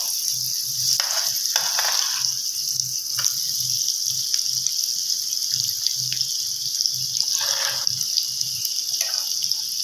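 Egg and onion frying in oil in a steel pan, sizzling steadily, with a metal spoon scraping across the pan several times as it is stirred.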